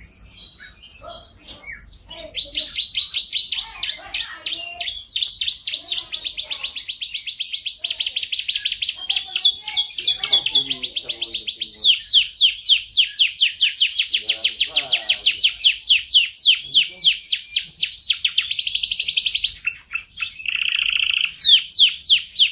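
F1 canary singing a long, continuous song of fast trills and rolls, switching from one trill pattern to the next every few seconds.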